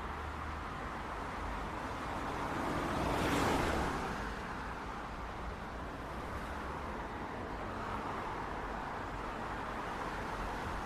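Steady city street traffic noise, with one vehicle passing close by, rising and fading about three to four seconds in.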